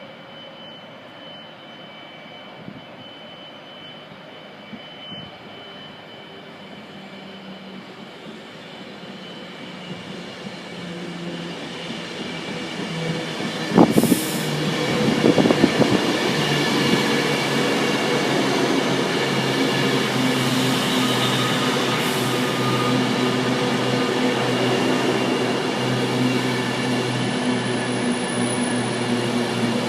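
A train approaching and running into the station, growing steadily louder, with a short burst of clattering knocks about fourteen seconds in, then a steady hum with high wheel squeal.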